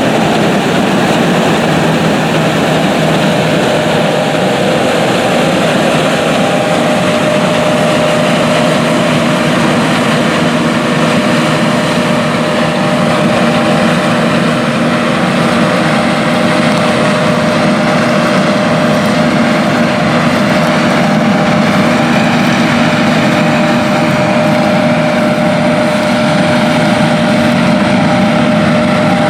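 Large John Deere harvest machinery running steadily under load: the diesel engines and drives of the combines and tractors in the field, a continuous heavy engine drone with a steady whine over it.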